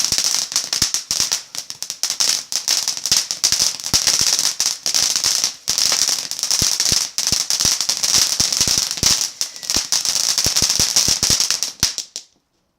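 Small ground firework burning: a steady high hiss packed with rapid, irregular crackles and pops, which cuts off suddenly about twelve seconds in.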